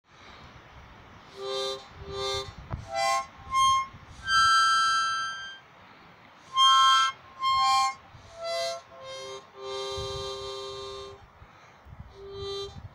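Harmonica playing a praise and worship tune in short notes and chords, with longer held chords about four seconds in and again about ten seconds in.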